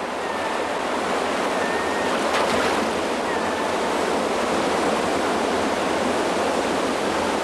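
Rushing water of a waterfall, a steady loud wash of noise, with a few brief high calls over it.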